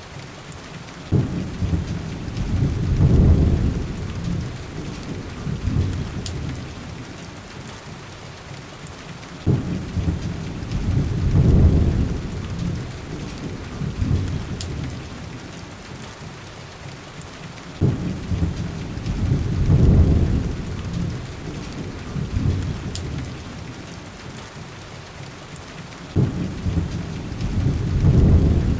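Steady heavy rain with deep rolls of thunder that come four times, about every eight seconds. Each roll starts suddenly, swells for a couple of seconds and dies away, repeating evenly like a loop.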